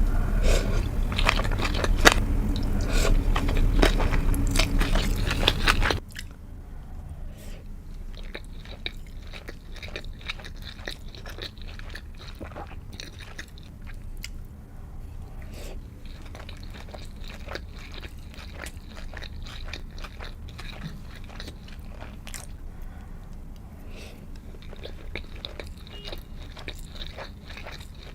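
Close-miked eating of sushi: bites and wet chewing with many small mouth clicks. It is loud for the first six seconds, then drops suddenly to a quieter level, where the chewing goes on.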